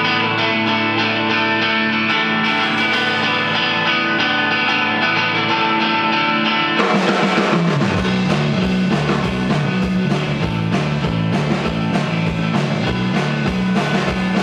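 Live rock band playing the instrumental intro of a song: guitar alone at first, then bass and drums come in with a steady beat about halfway through.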